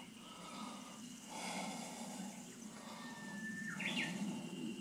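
Quiet outdoor ambience with a bird calling about three seconds in: one held whistled note, then a quick rising-and-falling flourish, after which a faint steady high tone carries on.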